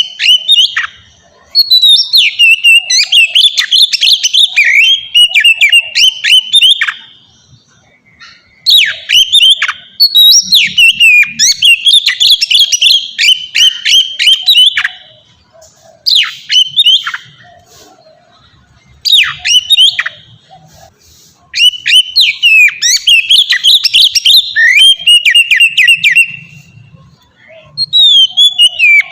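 Oriental magpie-robin (kacer) singing in full, loud song: phrases of rapid, varied whistles and chirps, about seven of them, separated by pauses of a second or two.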